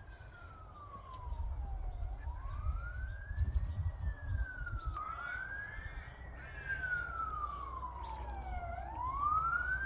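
A siren wailing, its pitch sweeping slowly up and down several times, with a low rumble underneath.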